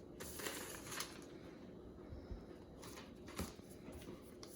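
A sheet of paper being folded and creased by hand: faint rustling with a few soft scrapes.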